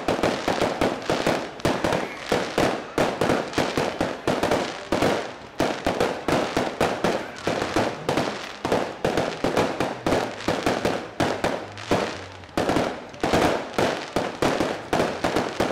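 Fireworks display: a rapid, unbroken volley of aerial bursts, several bangs and crackles a second, with a short lull about twelve seconds in before the volley picks up again.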